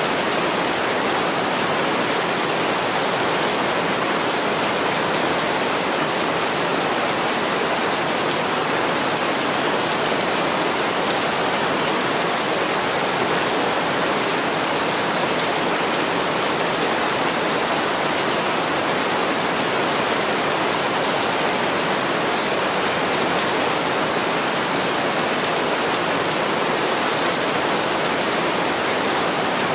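Heavy rain falling steadily on a window, an even hiss with no break or change.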